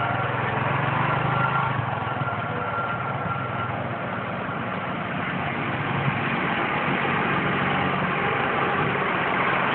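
Motorcycle engine running steadily during a ride, its low hum under a constant rush of noise.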